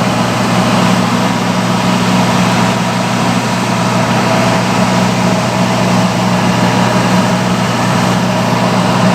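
Vintage salon hood hair dryer running on its highest setting: a loud, steady rush of blown air over a constant motor hum.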